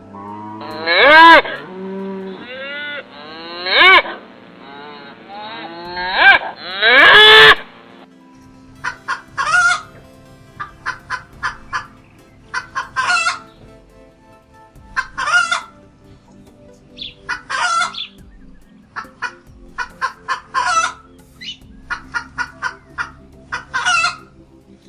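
Chickens: a rooster crowing several times in the first eight seconds, then hens clucking in short repeated bursts.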